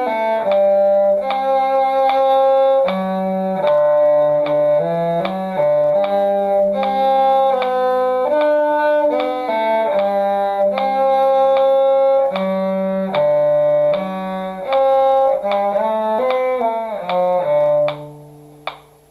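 A two-part string duet passage, a low cello line under a higher part, played at a steady, unhurried tempo. It stops about a second before the end, with the last low note fading.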